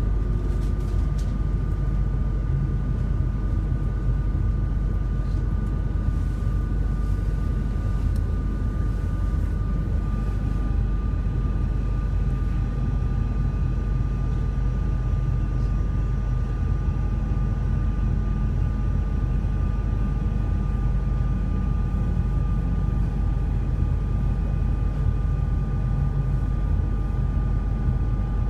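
RER C commuter train heard from inside a carriage while running at speed: a steady low rumble from wheels and track, with a steady high-pitched hum of several tones over it. More tones join the hum about ten seconds in.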